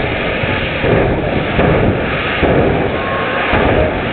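Drag racing car's engine running loudly, with uneven swells in level.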